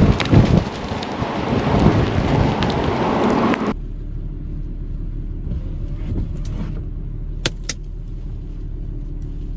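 Storm wind blasting the microphone in gusts. After a sudden cut, a steady low hum with the tags of a vehicle, with two sharp clicks close together near the end.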